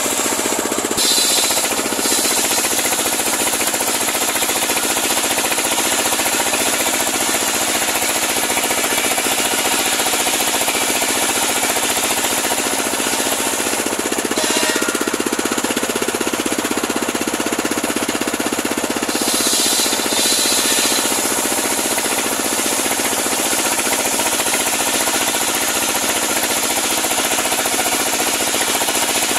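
Homemade engine-driven circular sawmill running steadily while ripping a large pule log, the engine holding a constant note under the saw blade's high hiss, which shifts slightly a few times.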